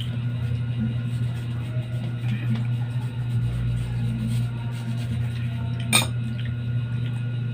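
A steady low hum, with one sharp clink of tableware against a dish about six seconds in.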